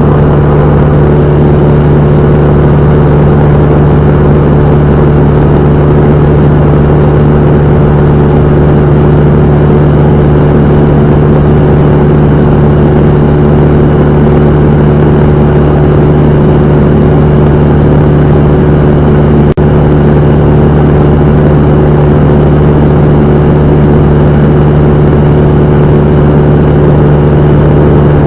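Cessna 172M's four-cylinder Lycoming engine and propeller running loud and steady, with a single brief click about two-thirds of the way through.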